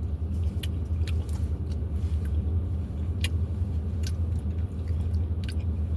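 Steady low hum with about half a dozen short clicks and taps from food and containers being handled while eating.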